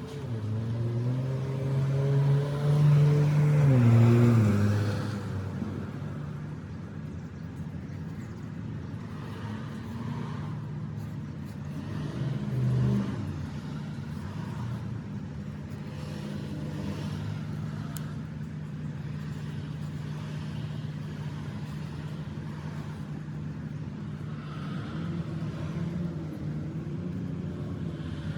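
A vehicle engine running. Its pitch rises and then drops a few seconds in, changes again about halfway through, and then holds a steady hum.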